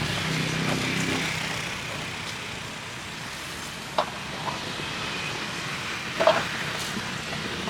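Street traffic: a passing motor vehicle's engine fades over the first second or so, leaving a steady traffic hiss. A sharp click comes about four seconds in and a louder knock a little after six seconds.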